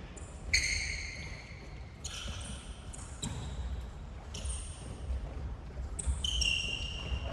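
Sneakers squeaking on a gymnasium floor during an indoor futsal game: a string of short, high squeals as players stop and turn, over a low hall rumble.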